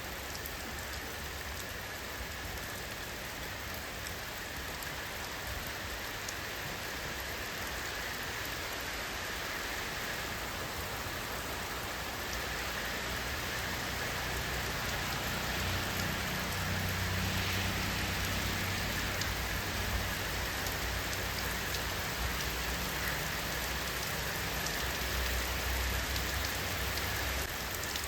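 Steady rain falling on surfaces, a continuous hiss with fine drop ticks. A low rumble swells in beneath it from about halfway through.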